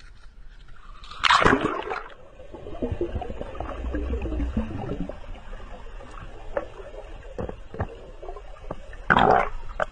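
Water splashing and sloshing, with two loud splashes, one about a second in and one near the end.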